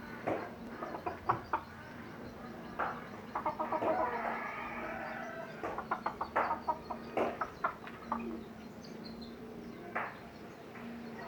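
Chickens clucking: a scatter of short, sharp clucks with one longer drawn-out call near the middle.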